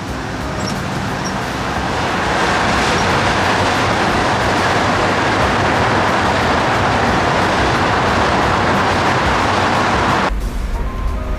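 Road and wind rush of a 1969 Nissan Cedric wagon on the move, swelling over the first two seconds and then holding steady. About ten seconds in it cuts off abruptly, giving way to a lower rumble.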